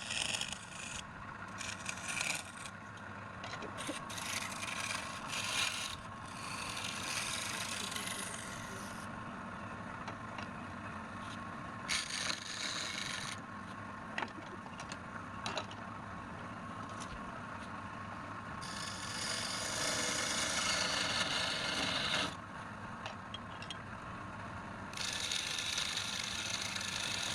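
Woodturning lathe running steadily while a tool is pressed against the spinning wood again and again, each pass a hissing scrape of a second to a few seconds over the motor's hum, the longest a few seconds before the end.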